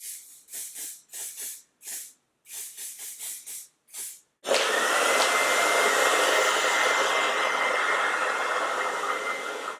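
Aerosol wig holding spray squirted in a quick run of about a dozen short bursts. About four and a half seconds in, a hair dryer switches on and runs steadily with a faint whine, setting the sprayed lace until it turns tacky.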